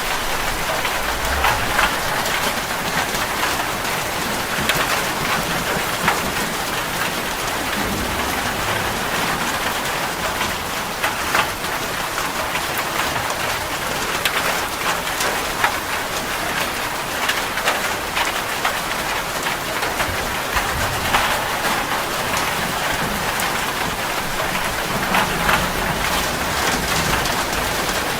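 Steady rain falling, a constant hiss with many separate drop impacts spattering through it.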